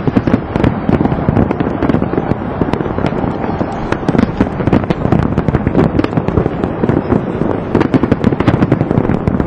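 A fireworks display in full barrage: many shells bursting in quick succession, dense bangs and crackling with no let-up.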